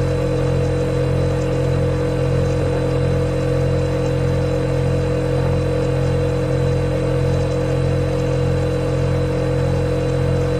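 Refrigerator compressor running with a steady, even hum and a low drone that does not change.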